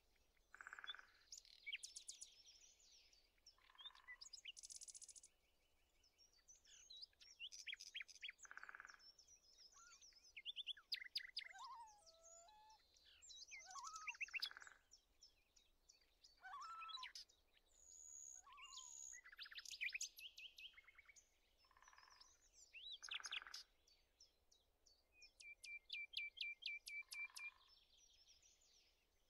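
Several songbirds chirping and singing together, quietly: quick trills, rapid runs of chirps and short whistles overlapping, with a lower call that recurs every few seconds.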